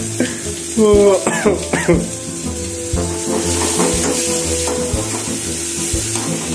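Onion-tomato masala sizzling in hot oil in a pan, under background music with a steady beat. A brief voice is heard about a second in.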